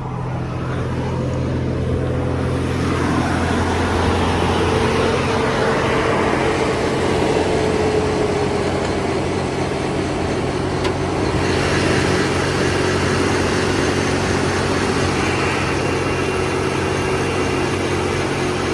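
1994 Toyota Land Cruiser's 4.5-litre inline-six idling steadily just after a cold start, still on its raised cold idle, with a whine that eases slowly lower over the first several seconds. More hiss joins about two-thirds of the way in.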